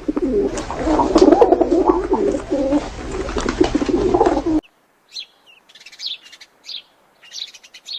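Birds calling: a dense chorus of low cooing calls that cuts off abruptly about four and a half seconds in, followed by short high-pitched chirps, roughly two a second.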